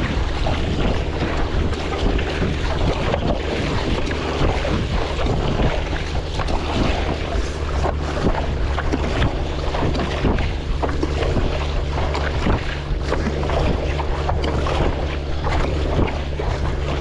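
Wind rumbling steadily on the microphone over choppy sea water, with irregular splashes and sloshes throughout.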